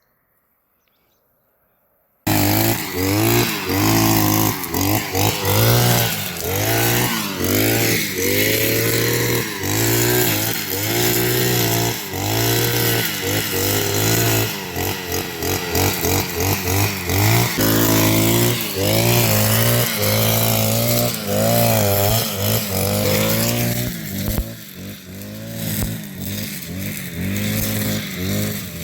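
Small petrol engine of a grass mower cutting in suddenly about two seconds in and running, its pitch rising and falling over and over as the throttle is worked. It gets somewhat quieter near the end.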